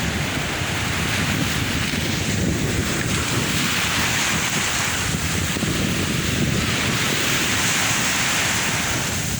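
Sea waves washing onto the shore in slow swells, with wind buffeting the microphone.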